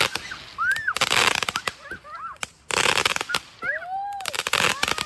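Fireworks crackling in three bursts of about half a second to a second each, with short squeals in between, each rising then falling in pitch.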